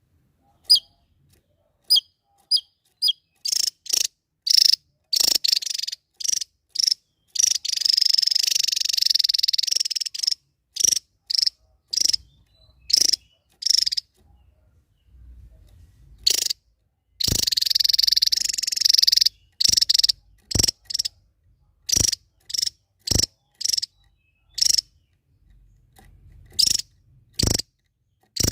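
Small songbird calling in short, sharp chirps, broken by two long, rapid buzzing trills: the bird's fast burst song.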